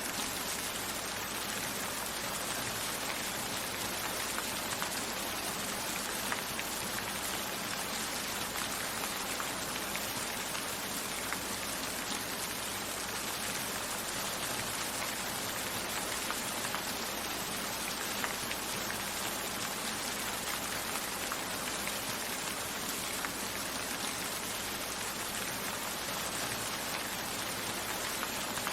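Steady rain: an even, unchanging hiss with scattered sharper drop ticks.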